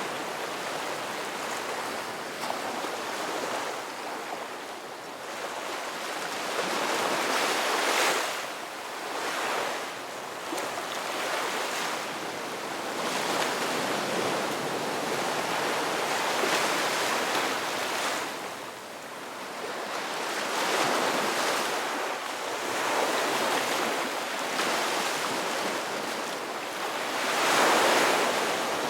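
Ocean waves breaking and washing on the shore, a steady rush of surf that swells and ebbs every few seconds, with the loudest wave near the end.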